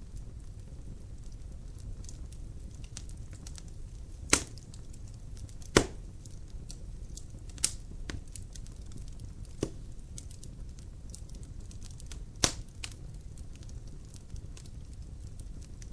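Wood fire burning in a fireplace: a steady low rumble of flames with scattered small crackles and about five loud sharp pops of burning wood.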